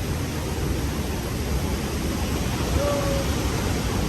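Steady, deep, even rush of the Rhine Falls' water.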